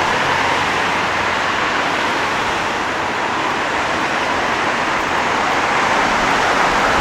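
Steady road traffic noise from passing cars, swelling slightly near the end.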